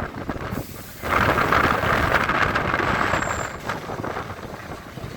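EMU local train running at speed, heard from inside the coach: a loud rushing of wheels and wind. It drops briefly about half a second in, surges back a second in and eases off after about four seconds.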